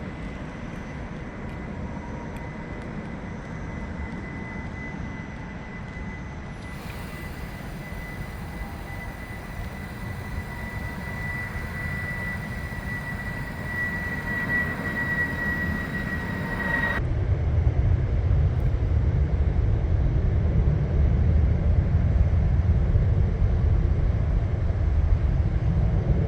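Airplane engine noise: a steady high whine over a low rumble. About two-thirds of the way through, the whine cuts off suddenly and a louder, deeper rumble takes over.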